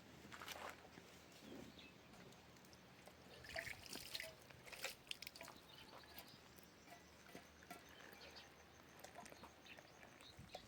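Near silence: faint outdoor background with a few scattered soft clicks and rustles.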